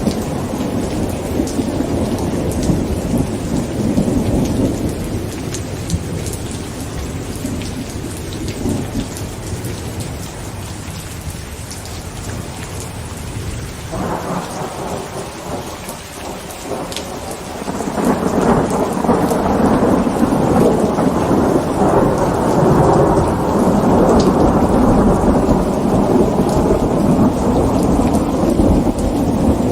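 Heavy rain on a tent with rolling thunder. A rumble fades away over the first half, then a new peal breaks in suddenly about halfway and swells into a louder, sustained roll a few seconds later.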